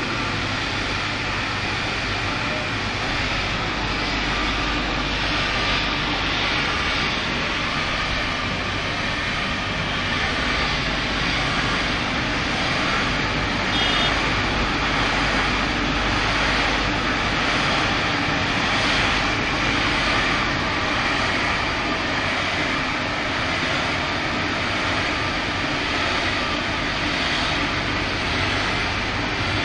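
KRE automatic car wash machine running, a steady loud rushing noise.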